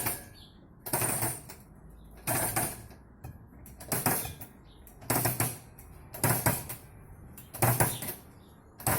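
Metal clicks and clanks from a grill grate's lifting mechanism, its latch catching notch by notch as the grate, weighted with a piece of steel rail, is raised; six or so clicks, roughly once a second.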